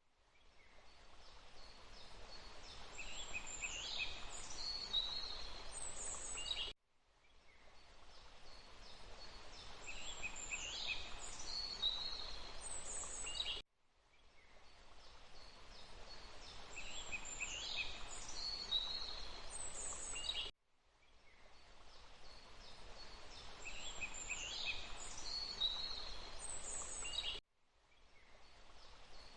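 Songbirds chirping and trilling over a steady background hiss, as a short nature-ambience loop. The loop repeats about every seven seconds, each time cutting out suddenly and fading back in over a second or two.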